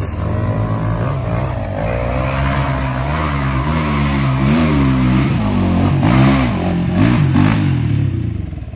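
Motocross motorcycle engine revving, its pitch rising and falling with repeated throttle blips, louder around the middle and dropping away near the end.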